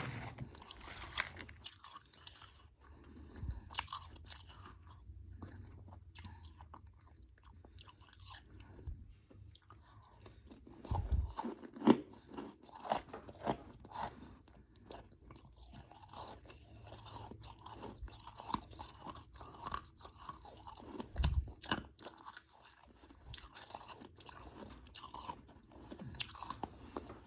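Close-up chewing and crunching of frozen powdery ice with some harder chunks: irregular crisp crunches, with a louder run of bites about halfway through.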